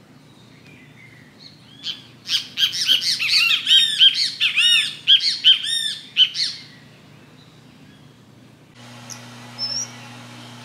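A bird calling: a rapid run of loud, sharp chirps, about four or five a second, starting about two seconds in and lasting close to five seconds.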